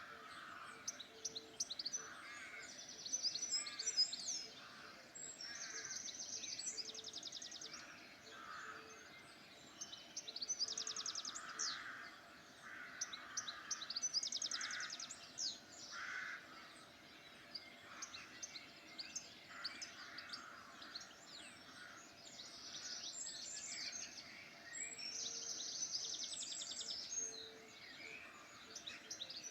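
Several wild birds singing together in a mixed chorus: rapid high trills and chirps overlapping with lower warbling phrases, and short low notes repeating every few seconds.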